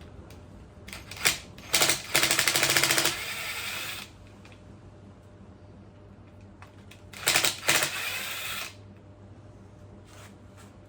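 Cordless power tool run in two short bursts with a fast, even rattle, backing out the Loctited oil pump cover cap screws on a KTM 250 EXC-F engine. A sharp clink comes just before the first burst.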